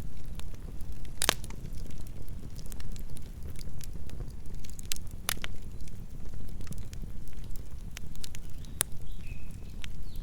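Campfire burning: wood crackling with irregular sharp snaps and pops, a couple of them louder, over a low steady rumble.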